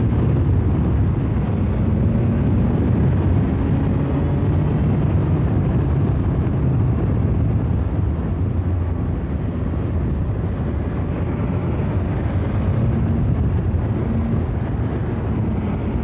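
2021 BMW S1000XR's inline-four engine running at a steady cruise under a constant rush of wind and road noise, easing slightly about halfway through.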